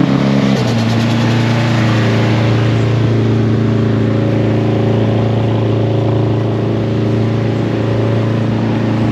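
Car engine idling steadily, its note dropping slightly about half a second in, from a Mitsubishi Eclipse that has just rolled into the meet.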